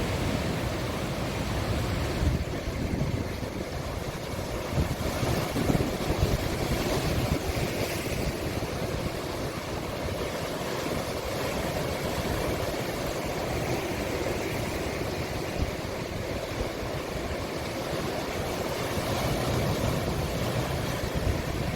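Sea waves breaking and washing onto the shore: a steady rushing that swells and eases every few seconds.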